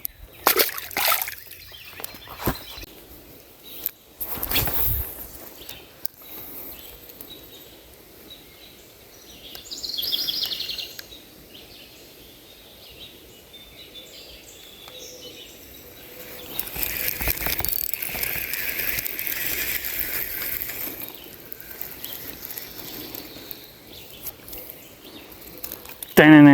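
Water sloshing and splashing while wading in a river, with a few sharp knocks and handling sounds early on, a short bird call about ten seconds in, and a longer stretch of splashing a little past the middle.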